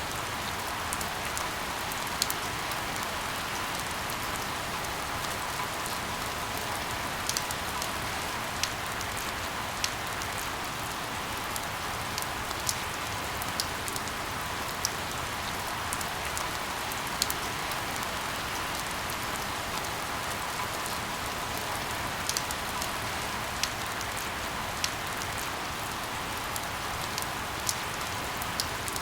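Steady rain hiss mixed with white noise, with scattered sharp drop ticks every second or two.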